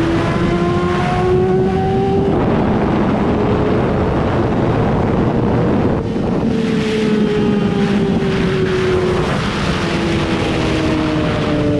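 Yamaha R6's inline-four engine under way on the road: the revs climb for about two seconds, then slowly fall through the second half as the bike rolls off. Heavy wind rush on the microphone.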